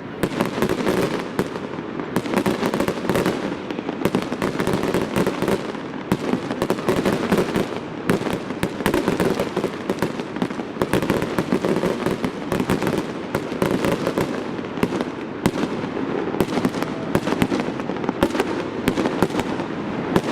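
Fireworks display in full swing: a continuous, dense run of shell bursts, bangs and crackling with no pause.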